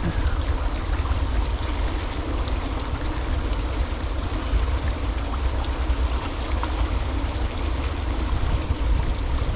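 Wind buffeting the microphone outdoors: a steady, fluttering low rumble with a hiss over it.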